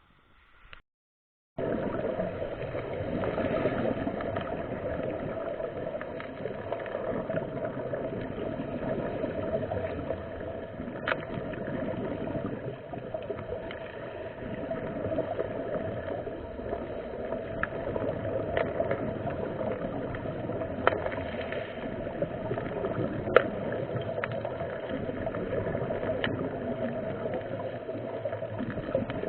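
Steady, muffled rushing water noise that starts about a second and a half in, with a handful of sharp clicks, the loudest about 23 seconds in.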